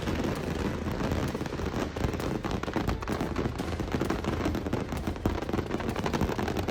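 Power lines arcing and burning after a lightning strike: a dense, irregular crackling and popping that keeps up without a break.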